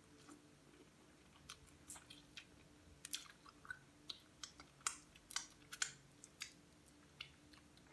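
A person chewing shrimp and sucking the seasoning off their fingers: faint, irregular wet mouth smacks and clicks.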